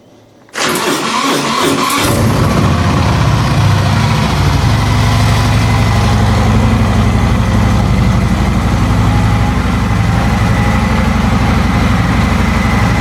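Stock exhaust of a 2019 Harley-Davidson Sport Glide's Milwaukee-Eight 107 V-twin: the engine starts about half a second in, runs rough for a moment, then settles into a steady idle at about 1450 to 1480 rpm.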